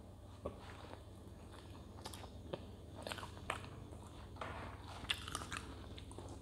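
A person chewing soft dudroti (dough dumplings cooked in milk), faint close-up mouth sounds with small clicks about one to two a second.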